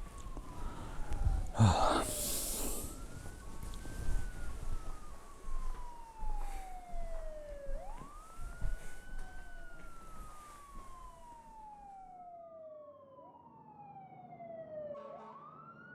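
A siren wailing, its pitch rising quickly and then sliding slowly down, over and over. A loud short crash sounds about two seconds in.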